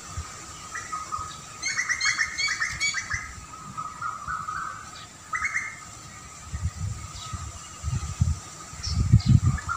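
Small birds chirping: a quick run of chirps about two seconds in and a shorter one past five seconds, over thin steady high tones. Low rumbling thumps build near the end and are the loudest sound.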